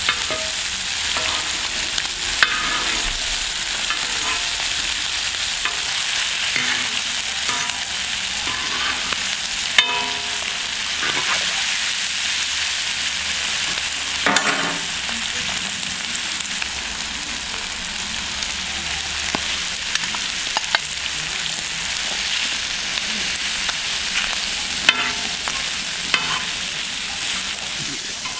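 Diced liver sizzling steadily on a wide iron sac griddle over a wood fire, with a sharp clink now and then as a metal spatula stirs and scrapes it against the iron.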